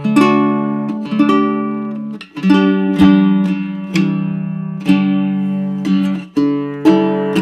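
Baritone ukulele with an ancient sitka spruce top and pernambuco back and sides, played unamplified: chords struck about once a second, each left to ring.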